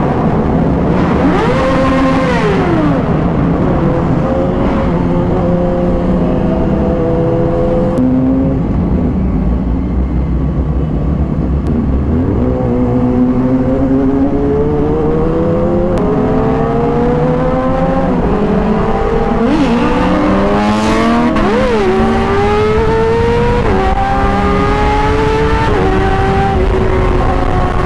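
Sport motorcycle engine under way, its pitch climbing under throttle and dropping back several times as the rider shifts and rolls off, over a steady rush of wind and road noise.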